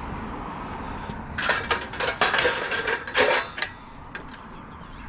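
Pieces of scrap metal clattering together as they are handled or dropped: a quick flurry of sharp metallic knocks with some ringing, starting about a second and a half in and lasting about two seconds.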